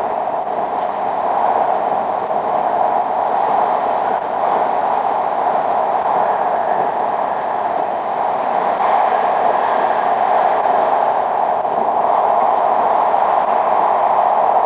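Steady running noise of an E5 series Shinkansen train at speed in a tunnel, heard from inside the passenger car as an even, unbroken rush.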